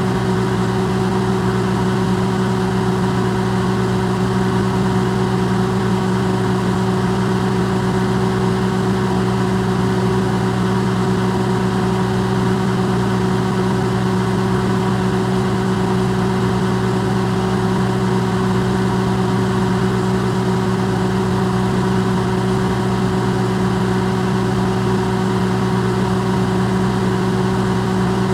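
Electrolux microwave oven running, recorded amplified: a steady low hum with a few fixed tones over an even whir, unchanging throughout.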